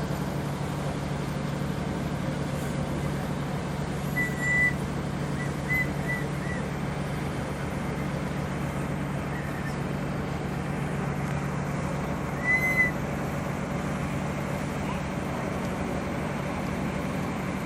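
Steady drone of a running vehicle engine, with a low hum. Short high whistle-like chirps come over it about four seconds in, a few more around six seconds, and once more near twelve and a half seconds.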